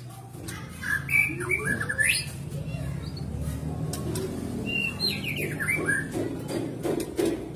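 White-rumped shama (murai batu) singing: two bursts of quick whistled notes and upward-sweeping phrases, one about a second in and another around five seconds in.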